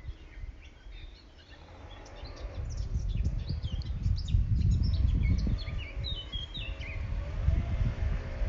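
Small birds chirping and twittering in many quick short calls, over a louder, uneven low rumbling noise that comes in about two and a half seconds in.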